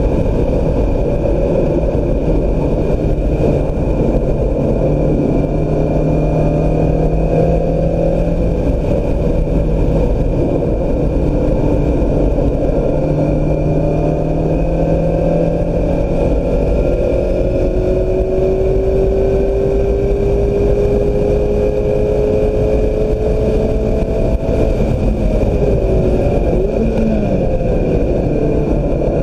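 2016 Mazda MX-5 Miata's 2.0-litre four-cylinder engine under hard acceleration on track, its pitch climbing steadily through each gear and dropping back at the shifts, over continuous road and wind noise.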